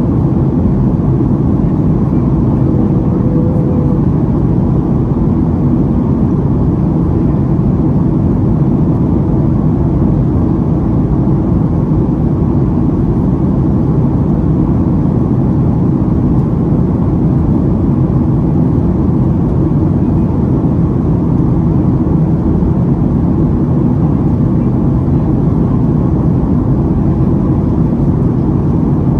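Steady in-flight cabin noise of a Boeing 737-800 heard from a passenger seat: the low, even drone of its CFM56 jet engines and the rush of air along the fuselage.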